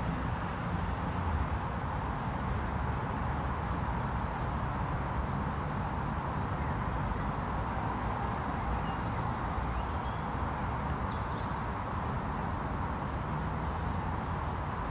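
Steady outdoor background hum, with faint high bird chirps and short twitters about five to eleven seconds in.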